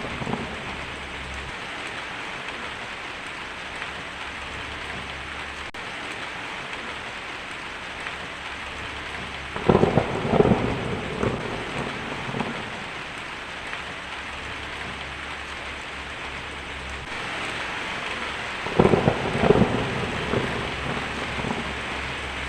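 Steady rain falling, with two rolls of thunder rumbling through it, one about ten seconds in and another near the end.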